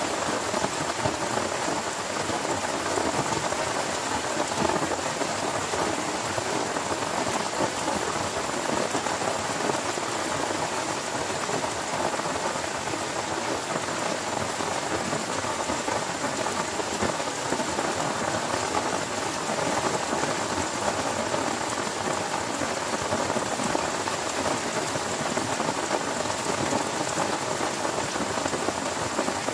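Heavy rain falling steadily, a dense, even patter of drops with no break.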